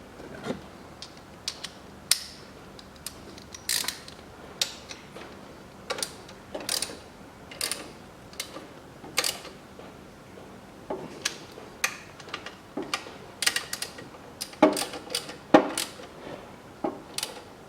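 Ratchet wrench tightening the two bolts of a drive-belt tensioner, heard as irregular metal clicks and knocks.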